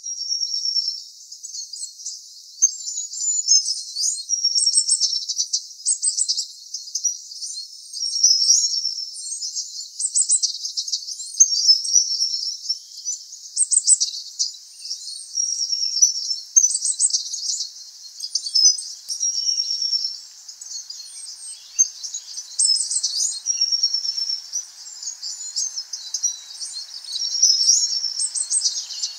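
Birdsong: high, thin chirps and trills in quick repeated phrases. A faint low hiss comes in near the end.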